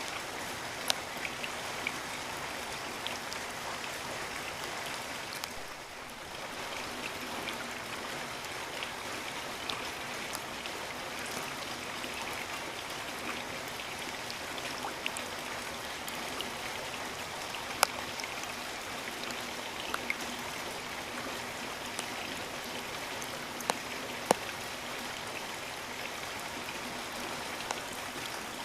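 Steady rain with scattered louder drops striking close by, the hiss dipping briefly about six seconds in.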